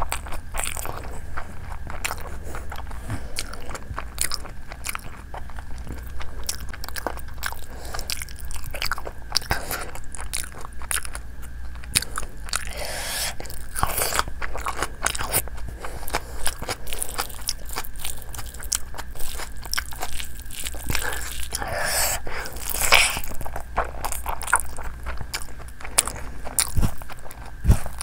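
Chewing and biting on chicken and fried rice eaten by hand: a dense, steady run of small mouth clicks, with a few louder bursts scattered through.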